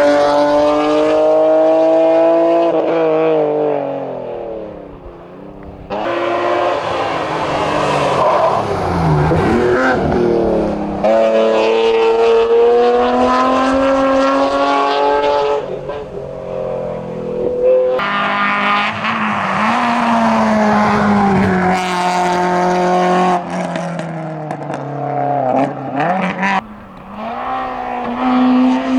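BMW 325i (E36) straight-six engine at full throttle up a hillclimb course, revs climbing and dropping repeatedly through gear changes. Near the end it gives way to a Citroën Saxo VTS four-cylinder, also accelerating hard.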